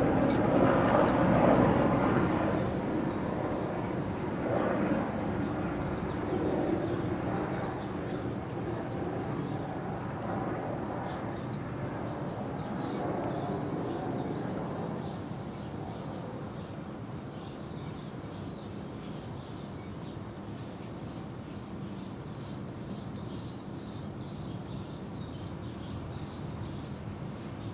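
A broad rumble, loudest at the start, fades away over the first few seconds while short high chirps repeat, settling into a steady run of about three chirps a second in the second half.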